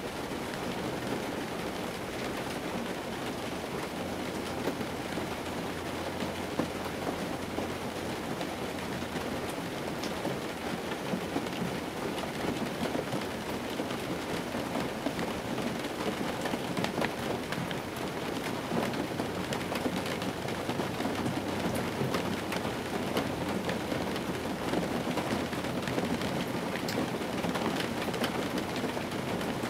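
Steady rain falling on an old car's roof and windshield, heard from inside the cabin: a dense hiss with many separate drop taps.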